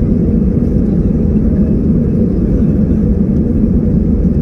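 Airliner's jet engines at takeoff power: a loud, steady, low rumble.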